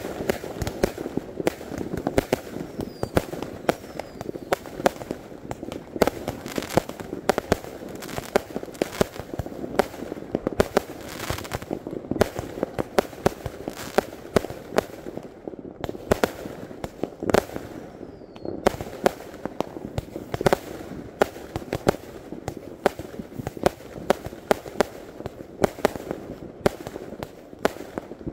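Fireworks going off in a dense, continuous barrage of bangs and crackles from rockets and aerial bursts, several a second. A few brief falling whistles cut through.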